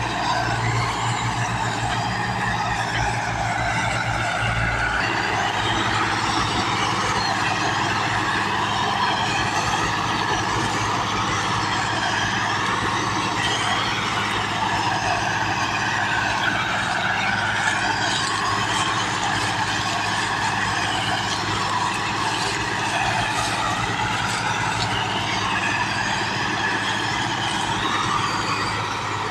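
Tractor engine running continuously, its low beat shifting about five seconds in.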